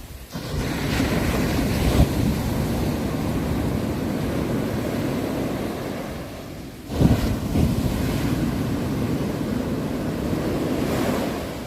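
Ocean waves breaking on a shore: two surges of surf, one just after the start and another about seven seconds in, each rushing in and slowly washing out.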